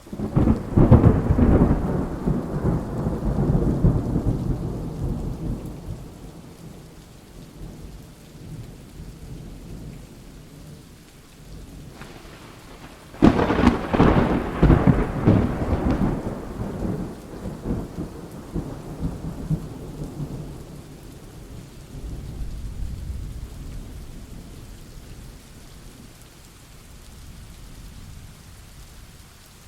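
Thunderstorm with steady rain falling throughout. A loud thunder clap breaks at the very start and rumbles away over about six seconds; a second sharp crack comes about 13 seconds in and rolls on for several seconds, followed by a fainter low rumble about 22 seconds in.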